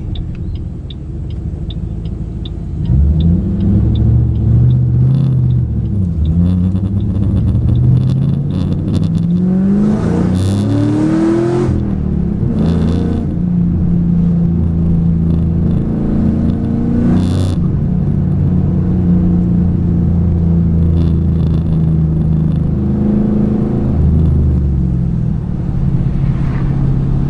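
2008 Ford Mustang GT's 4.6-litre three-valve V8 under way: it picks up about three seconds in, revs up again with rising pitch, drops back at a gear change, then runs at a steady cruise. It is running on new MSD Blaster coil-on-plug coils that cured its misfire.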